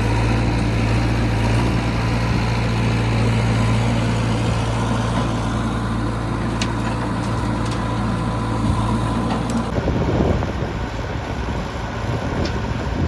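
Heavy diesel engine running steadily at an even speed. About ten seconds in, the steady engine note stops abruptly and rougher, noisier sound takes over.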